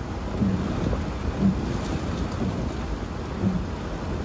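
Heavy thunderstorm rain beating on a car, with a steady low rumble of wind and storm. A low thump recurs about once a second.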